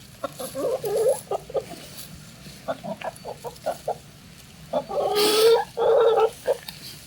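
Backyard hen clucking: a quick cluster of soft clucks, then a string of short single clucks, then two louder, longer calls near the end.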